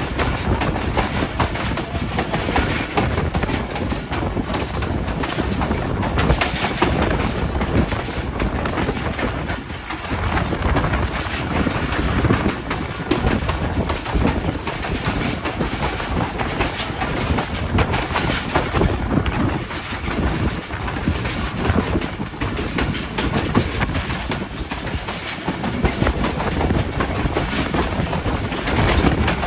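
Hazara Express passenger train running, a steady loud rumble and rattle of the coaches with wheels clattering over the track.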